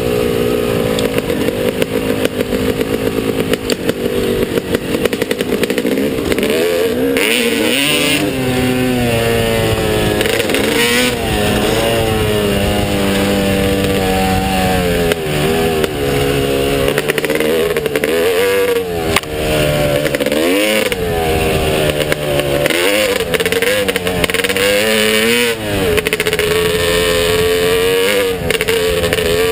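Motocross bike engine being ridden hard, its pitch repeatedly climbing as the throttle opens and dropping back when the throttle is shut or the rider shifts gear.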